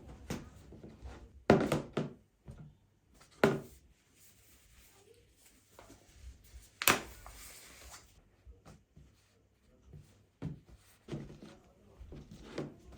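Household objects handled and set down in a small room: several sharp knocks and thuds, the loudest about one and a half seconds in and again about seven seconds in, with soft rustling between.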